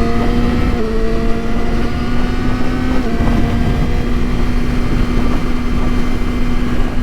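Yamaha R6 inline-four engine running under way at steady revs, its pitch dipping slightly twice in the first three seconds and then holding steady. Wind noise rushes on the microphone throughout.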